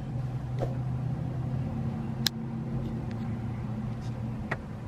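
Steady low hum of a parked car idling, heard from inside the closed cabin, with a few faint clicks.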